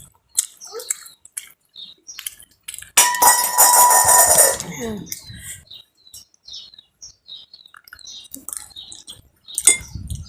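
Scattered light clinks and taps of dishes and utensils, with one loud, noisy sound lasting about two seconds starting about three seconds in.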